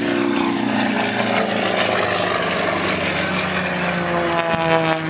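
Propeller aircraft engine droning as the plane flies past, its tone sliding slowly down in pitch.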